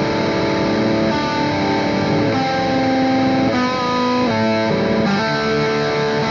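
Electric guitar playing a droning lead line through delay and modulation effects: an open string rings under sustained fretted notes that change every second or so. One note bends slowly in the middle.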